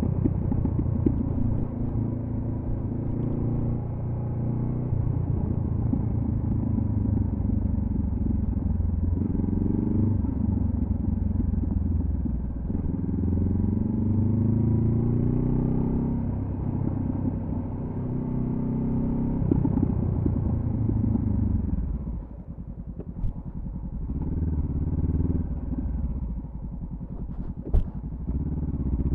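2014 Honda CB500F parallel-twin engine through a Delkevic carbon-fibre slip-on exhaust, pulling up through the gears in repeated rising runs that drop back at each shift. About two-thirds of the way through it eases off to a quieter lull, then pulls away again.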